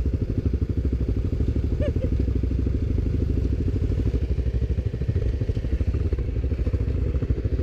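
ATV engine running steadily, a rapid low pulsing that holds throughout.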